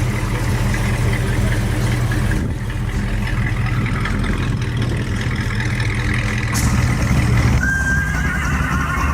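A car engine running steadily at idle. Near the end a short high tone sounds, then a wavering high one.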